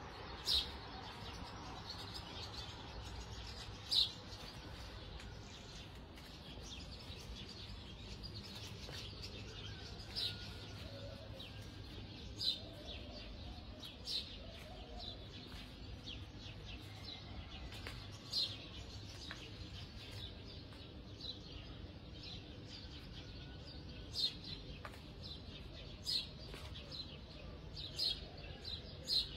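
Short, sharp bird chirps at irregular intervals, about one every second or two, over a steady low hum.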